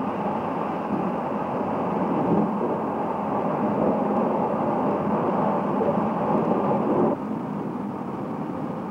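Steady running noise of a moving passenger train, wheels rolling on the rails. It drops to a lower, steady level about seven seconds in.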